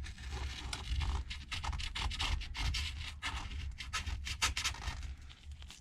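A blade scraping leftover adhesive and bits of glass off the iPad Pro housing's frame in quick, repeated strokes.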